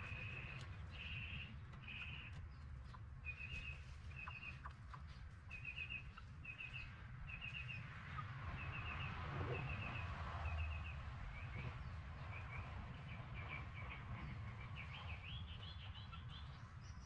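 A bird chirping in short bursts of two to four quick notes, repeated about once a second, over a low steady rumble. Near the end the notes come faster and rise in pitch.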